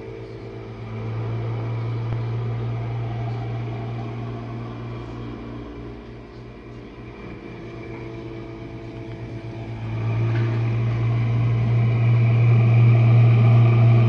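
Jenn-Air dishwasher running, a steady low hum from its wash motor with a noisy rush over it. It eases off in the middle and gets clearly louder about ten seconds in.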